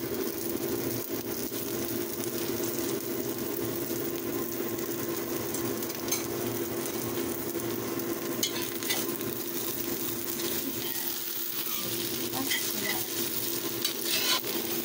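Egg and enoki mushrooms sizzling as they fry in a pan, a steady frying hiss with a low hum underneath. A few light clicks of a utensil against the pan come in the second half.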